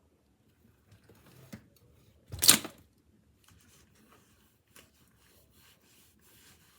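Rustling and scraping of hands handling brown sugar for a brisket rub, with one loud rustle lasting about half a second, two and a half seconds in, then faint scratchy rubbing.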